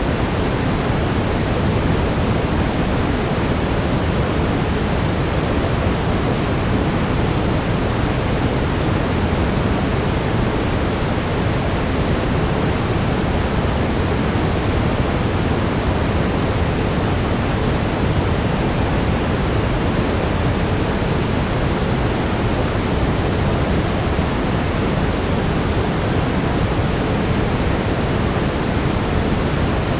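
Steady brown noise: an even, unbroken rushing hiss weighted toward the low end, with no change over the whole stretch.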